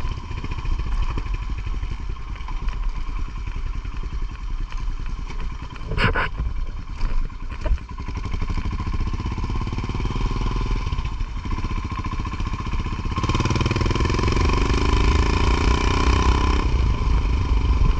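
Motorcycle engine running while riding, with a single knock about six seconds in. From about thirteen seconds the engine note rises and gets louder as the bike accelerates, then eases off near the end.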